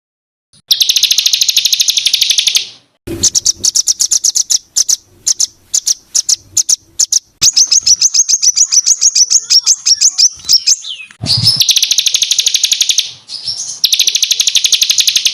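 A small songbird singing harsh, rapid trills. The notes come so fast they blur into rattling bursts of about two seconds each, and these alternate with runs of separate sharp chirps and whistles.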